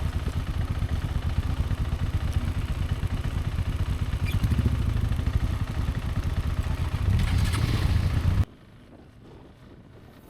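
Motorcycle engine running as the bike rides along, getting louder about halfway through. It cuts off abruptly about eight seconds in, leaving only low background sound.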